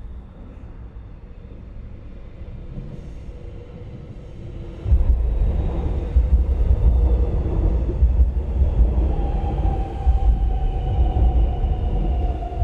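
Low rumble of a passing vehicle that grows suddenly much louder about five seconds in, with a faint tone sliding slowly down in pitch in the second half.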